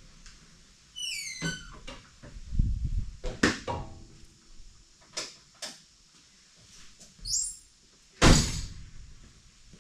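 Scattered knocks and clunks, the loudest a door-like slam about eight seconds in. A bird chirps twice, once about a second in and again near the end.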